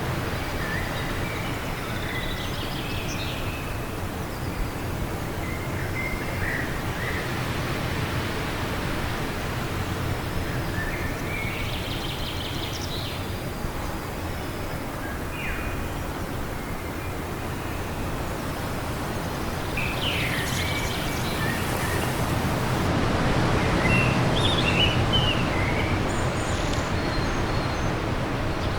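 Steady wind noise with birds chirping and giving short calls at scattered moments throughout. The wind swells about two-thirds of the way in, with a cluster of chirps around the same time.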